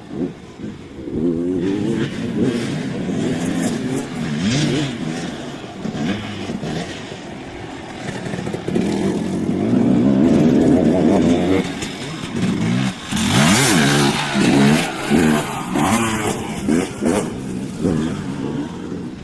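Dirt bike engines revving up and down as the bikes ride the track, their pitch rising and falling again and again. They are loudest about halfway through and again near the end, with a rushing noise as a bike comes close.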